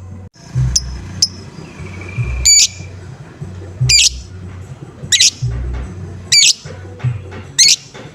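Lovebird giving short, high 'ngoek' calls, repeated evenly about once every second and a quarter, with a few thinner chirps and a brief held note before them. A low steady beat of background music runs underneath.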